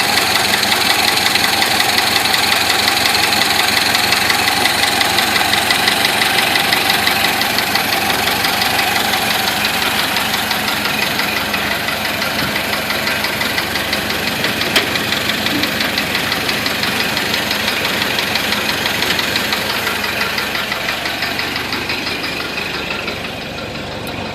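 Ford Model A's four-cylinder flathead engine running steadily with an even beat, slowly growing quieter over the second half.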